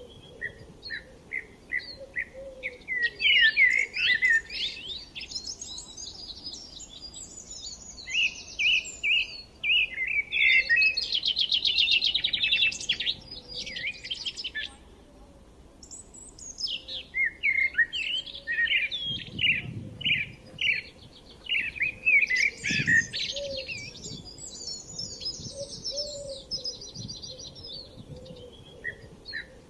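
Several songbirds singing and chirping together, with repeated short notes and fast trills overlapping. A faint low rumble lies underneath.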